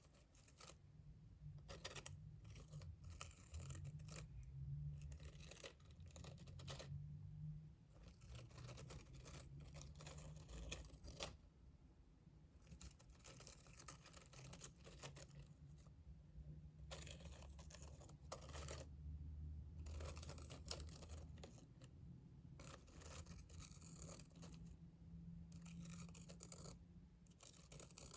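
Close-miked ASMR trigger sounds: soft scratching and brushing noises in irregular runs, broken by short pauses.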